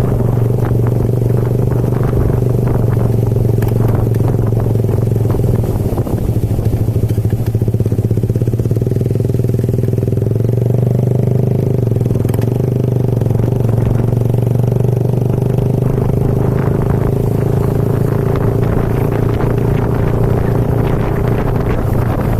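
Motorcycle engine running steadily while riding, with road and wind noise underneath.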